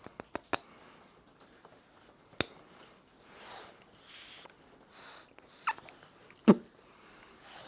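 Several short puffs of breath blown through small lawnmower carburettor jets to clear them of blockage. A few small clicks come near the start, and a single sharp knock about six and a half seconds in is the loudest sound.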